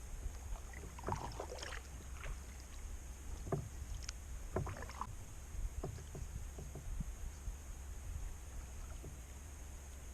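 Kayak paddle dipping into the water, with irregular splashes and drips from a few strokes, heaviest in the first half.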